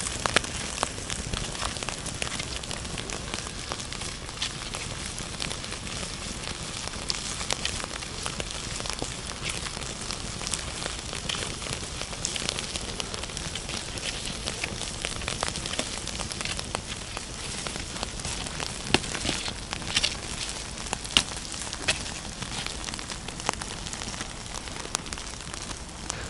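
Wood campfire crackling with frequent sharp pops, over a steady sizzle of pork fat (salo) frying inside potatoes baking in the fire.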